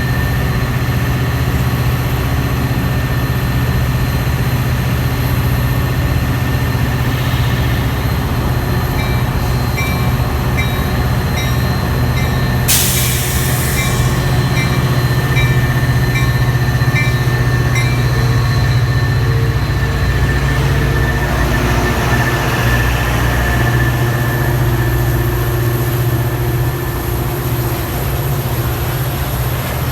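Metra diesel locomotive running with a steady low drone as a train passes the station. A high-pitched pinging repeats about twice a second in the middle. About 13 seconds in there is a short, sharp hiss of air.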